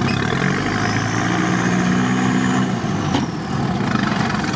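Off-road 4x4's engine running as the vehicle drives slowly over rough grass, heard from inside the cab, its pitch shifting a little with the throttle.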